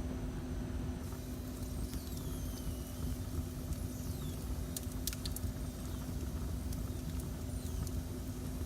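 Wood fire burning in a fireplace: a steady low rumble and hum with a few sharp crackles and thin whistling hisses that fall in pitch.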